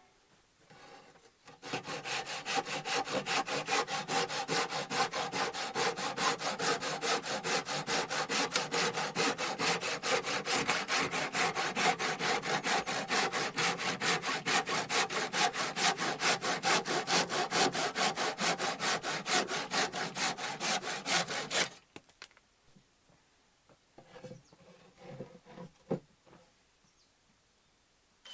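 Hand saw cutting through a wooden board in steady back-and-forth strokes, about three a second, for some twenty seconds before stopping suddenly. A few faint knocks of wood being handled follow.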